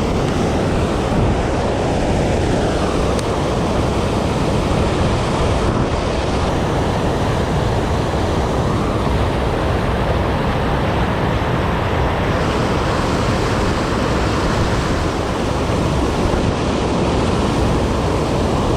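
Steady rush of river water pouring over a low water dam, an unbroken loud wash of noise.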